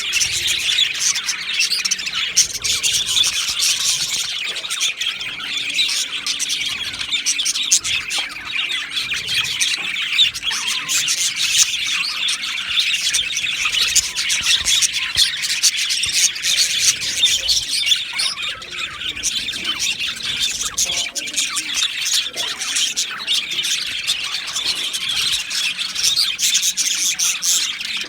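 A flock of budgerigars chattering continuously, many birds chirping and squawking over one another in a dense, unbroken din.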